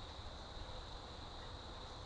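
Faint, steady outdoor background: a low rumble and hiss with a constant high-pitched buzz held on one pitch, and no distinct calls or footsteps.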